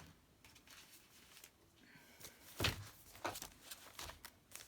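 Paper and a folder being handled on a craft table: light rustling and a few short clicks and knocks, the loudest a thump about two and a half seconds in.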